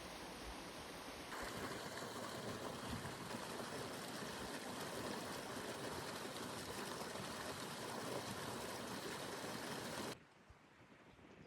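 Steady rushing water noise, a dense hiss with no distinct drops or strokes. It changes abruptly and grows louder about a second in, then cuts off suddenly near the end.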